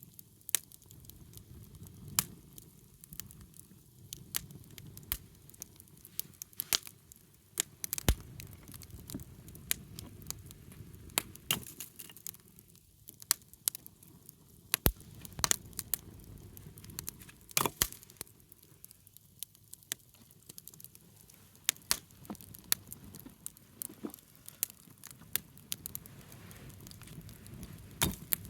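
Wood campfire burning, crackling with irregular sharp pops over a low steady rush.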